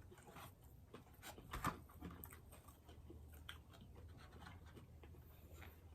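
Faint chewing and mouth sounds of people eating a burger and fries, soft scattered clicks with one slightly louder click about a second and a half in.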